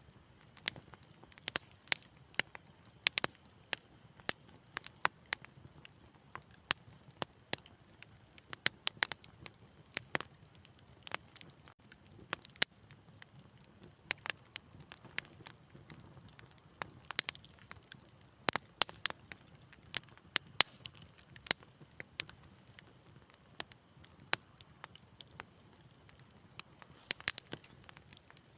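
Wood fire crackling: irregular sharp pops and snaps, several a second, over a faint low hiss of burning.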